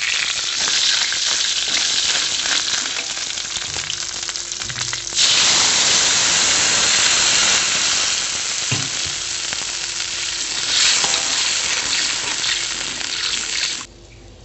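Chopped spices and a lemongrass stalk sizzling in hot oil in a wok, with a metal spatula stirring and scraping through them. The sizzle grows louder about five seconds in and cuts off abruptly near the end.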